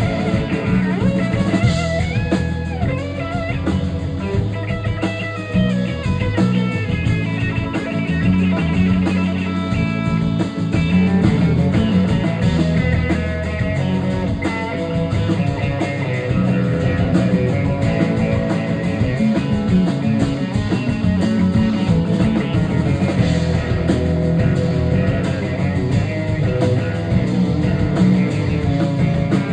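Live rock band playing an instrumental passage: an electric lead guitar plays a bending, sliding solo over bass and a drum kit.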